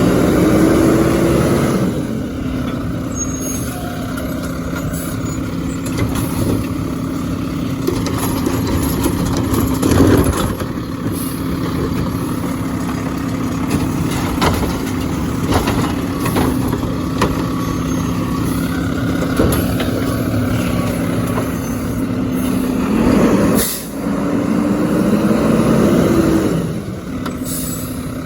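A diesel garbage truck runs steadily, its engine revving up and falling back several times. A few brief sharp sounds cut through, the clearest about ten seconds in and again about two-thirds of the way through.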